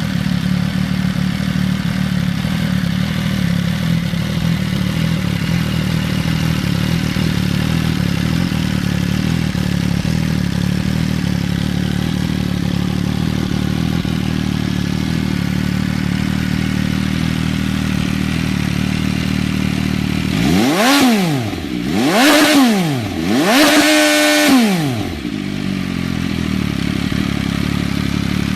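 MV Agusta Dragster 800's three-cylinder engine idling through an SC-Project S1 SBK full titanium exhaust, then revved three times about twenty seconds in, the last rev held briefly at the top, before dropping back to a steady idle.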